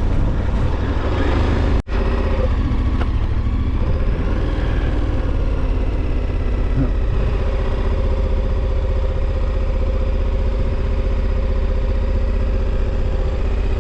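KTM 1290's V-twin engine running at a steady cruise under heavy wind rumble on the microphone. The sound cuts out briefly about two seconds in.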